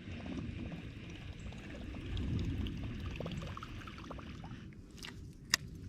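River water splashing and trickling around a kayak over a steady low rumble, with small scattered ticks and one sharp click near the end.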